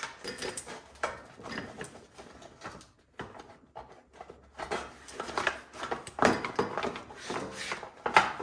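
Plastic engine shroud of a snowblower being unbolted and worked loose by hand: irregular knocks, rattles and scrapes of plastic and tools.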